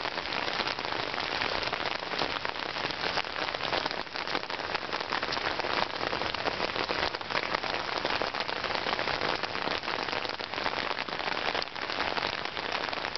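Heavy rain pouring onto a flooded street, a steady hiss of falling rain mixed with rushing floodwater.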